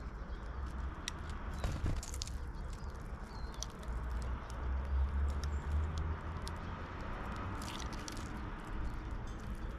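Small birds feeding at a bird feeder: irregular sharp taps and cracks of pecking at seeds, with a couple of short high calls, over a steady low rumble.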